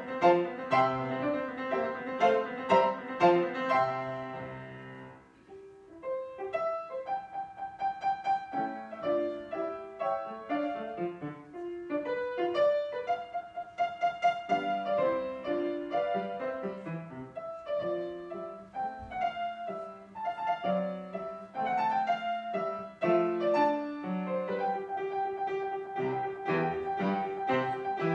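Piano playing classical music, with a brief near-pause about five seconds in before the phrase resumes.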